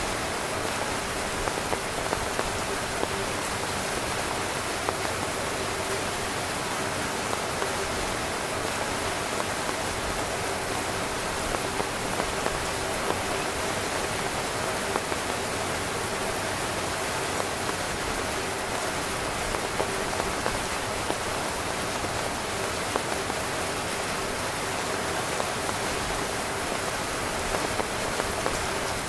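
Heavy rain falling on a camping tent: a steady, dense hiss with many separate drop hits standing out.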